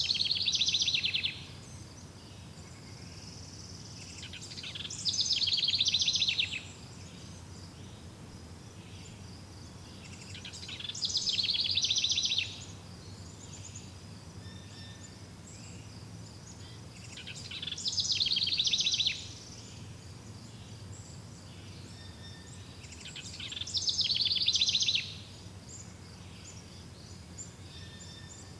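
A songbird repeating the same short trilled phrase five times, about every six seconds. Each phrase lasts under two seconds, opening high and swelling into a rapid trill that drops in pitch at its end, over a steady low background hum.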